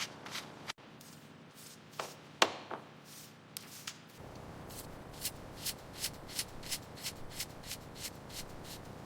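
Workshop hand-work sounds: rubbing, with sharp taps, the loudest about two and a half seconds in, then a regular run of about three taps a second through the second half.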